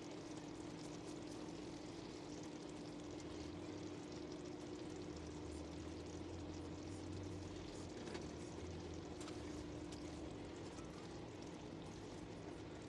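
Steady hiss and bubbling of a covered pot of noodles boiling on high heat on a stovetop, with a steady low hum underneath.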